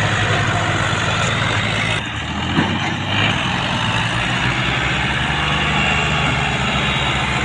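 Fiat tractor's diesel engine running steadily with a throbbing beat. About two seconds in the sound dips briefly and shifts.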